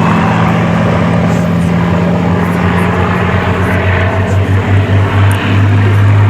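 Rolls-Royce Merlin V12 piston engine of a Second World War fighter in display flight: a loud, deep, steady drone that takes on a throbbing beat in the second half.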